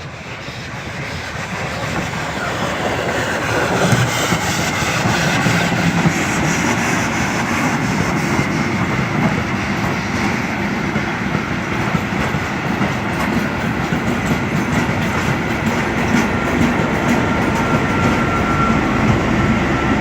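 Historic steam-hauled train passing over a level crossing, growing louder over the first few seconds, then a steady loud rolling clatter of wheels on the rails, with a thin high wheel squeal coming in near the end.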